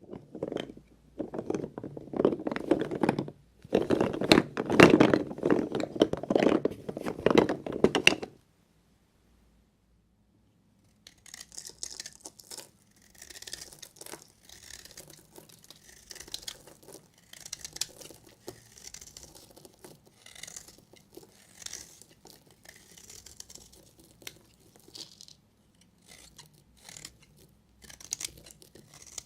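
Knife cutting through a bar of dry soap, with dense crunchy crackling for about eight seconds. After a short pause come lighter, hissier scraping strokes as the blade keeps working the soap.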